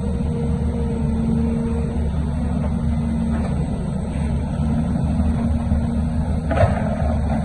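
Heavy diesel construction machinery running steadily, with one short knock about six and a half seconds in.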